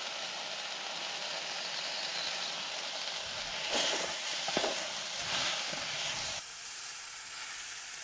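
Steady sizzle of spices frying in hot oil in a cooking pot for khichdi. It grows louder and uneven for a couple of seconds midway, then changes abruptly to a thinner, quieter sizzle near the end.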